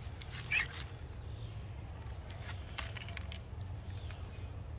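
A few short, brittle cracks and clicks as a dry food item is snapped in two; it breaks well off the centre. Under it there is a steady low rumble and a faint insect chirr.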